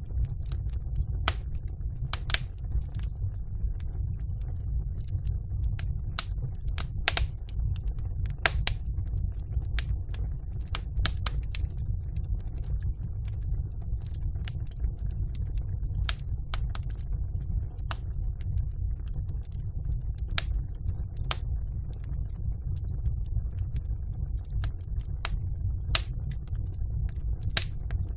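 Wood fire burning in a fireplace: irregular sharp crackles and pops, one or two a second, over a steady low rumble.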